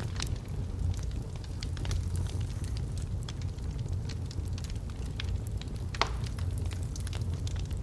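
Wood fire burning in a fireplace: a steady low rumble of flames with scattered sharp crackles and pops from the logs, a louder pop about six seconds in.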